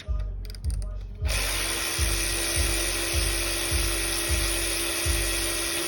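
A power tool's motor starts about a second in and runs steadily with a constant whine, over background music with a steady bass beat.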